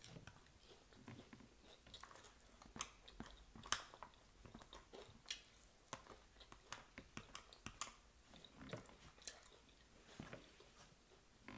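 Soft, close chewing and crunching of a fried chicken Caesar salad, with irregular sharp, crisp crunches from bites of lettuce and croutons, the loudest a little under four seconds in.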